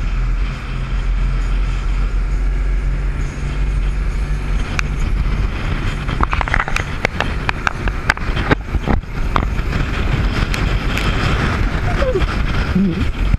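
Speedboat engine running with a steady low drone under rushing wind and water noise; from about five seconds in, sharp knocks and slaps cut through it, with a brief voice near the end.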